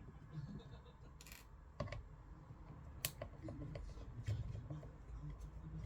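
Light, scattered clicks and scrapes of small tools and plastic parts being handled while a Harman Kardon Esquire Mini speaker is taken apart, with a short scrape a little over a second in and sharper clicks near two and three seconds in.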